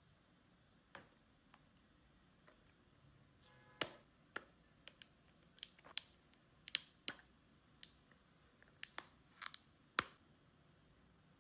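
Irregular series of short, sharp clicks and snips from utensils working in food preparation, with the louder ones clustered in the middle of the stretch.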